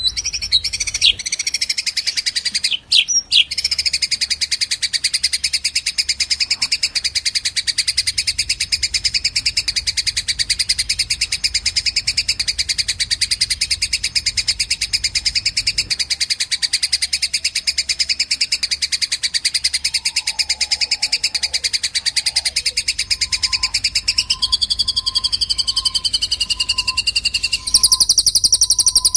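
Small songbirds chattering, with rapid, unbroken high chirps from a birdsong training track that pairs a fighting Eurasian tree sparrow with a cililin. Near the end the chirping switches to a different, higher call.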